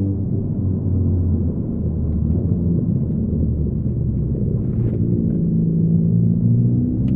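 2015 Ford Focus ST's turbocharged four-cylinder engine and Roush aftermarket exhaust under way, heard from the driver's seat inside the cabin as a low, steady drone. The note roughens in the middle and steadies again in the second half.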